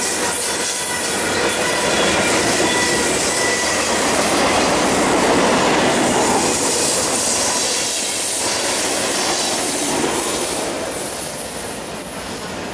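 Freight cars of a passing manifest train rolling by on the rails: steady wheel and rail noise with clickety-clack, and a thin wheel squeal during the first few seconds. The noise eases near the end as the last car passes.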